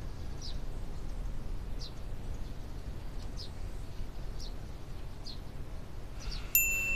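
Faint, short bird chirps about once a second over a low, steady room hum. Near the end a bright chime-like note strikes and rings on as background music begins.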